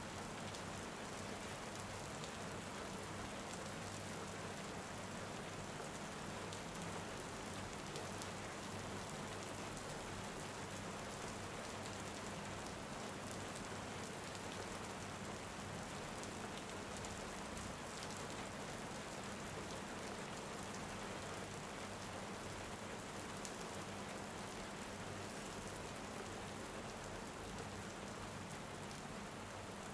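Steady rain: an even hiss with small drop ticks scattered through it, over a faint steady low hum.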